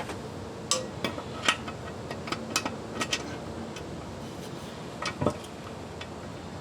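Irregular metallic clinks and taps as a deep aluminum transmission oil pan and its bolts are worked into place against a 46RE automatic transmission, with a louder pair of knocks about five seconds in.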